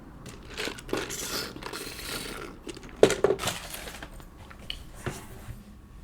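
Close-up handling noises: rustling for a couple of seconds, then two sharp knocks a moment apart about three seconds in, and lighter clicks and taps after.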